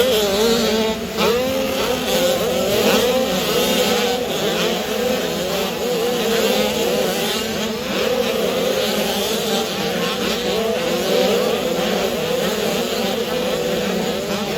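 Several motocross bikes' engines racing together, each revving up and down through the gears so that their pitches keep rising and falling over one another.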